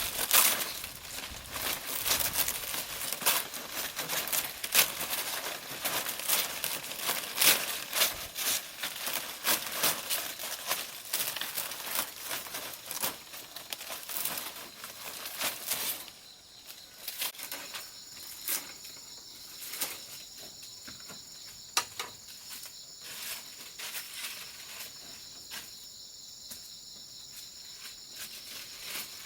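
Dry leaves crackling and rustling as they are handled, dense and busy for the first half, then thinning to scattered crackles about halfway through. Insects drone steadily in the second half.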